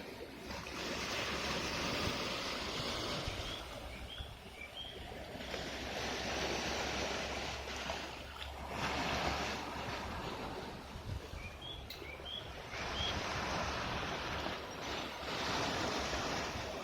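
Baltic Sea waves washing onto the shore, the wash rising and falling every few seconds, with a low wind rumble on the microphone.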